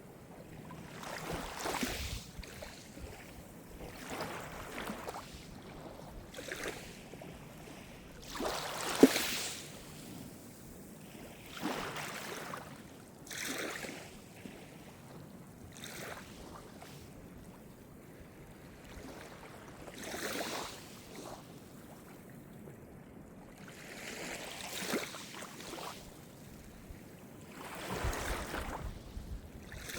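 Calm Mediterranean surf: small waves break and wash ashore every few seconds, each one a short rushing swell. About nine seconds in there is a sharper, louder splash.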